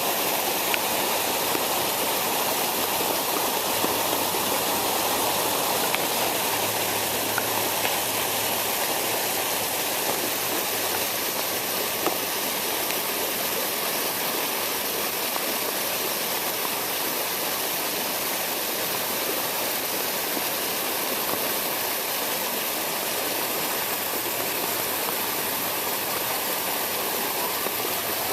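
Storm water runoff from a parking lot pouring and rushing steadily, like a small stream or waterfall.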